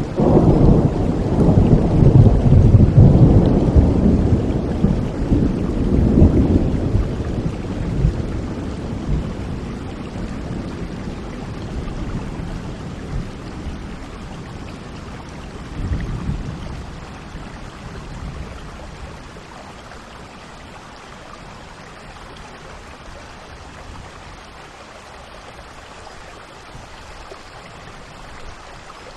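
Thunderstorm: a long rolling peal of thunder in the first several seconds, a shorter rumble about halfway through, over steady rain.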